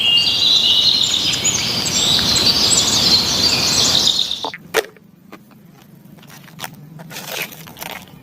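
Birds chirping rapidly over a steady hiss; about four and a half seconds in, both stop abruptly and leave only a few light clicks and knocks.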